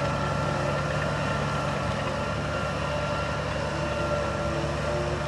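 Heavy earthmoving machine's diesel engine running steadily, with a few thin steady tones sounding above the low engine note.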